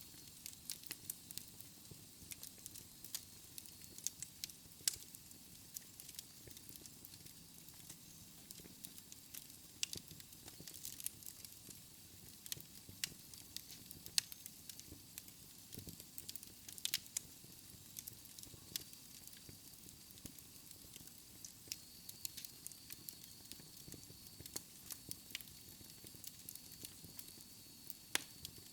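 Wood fire crackling in a fireplace: irregular sharp pops and snaps of varying loudness over a soft hiss.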